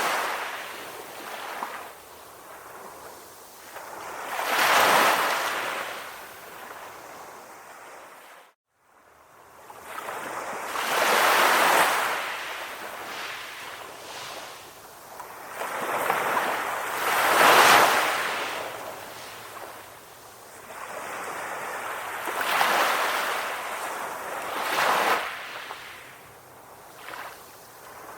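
Calm ocean waves breaking, each one swelling and fading away every five to six seconds. About a third of the way in, the sound cuts out completely for a moment.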